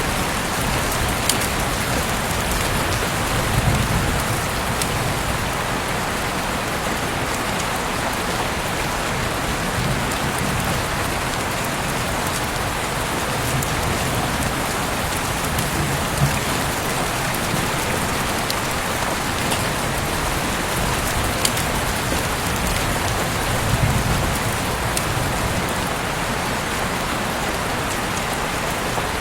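Heavy rain falling steadily, heard through an open window, with a few sharper drop ticks scattered through it.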